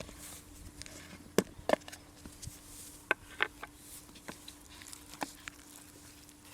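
A kitchen knife striking a wooden cutting board in a few sharp, irregularly spaced knocks, over a faint steady hum.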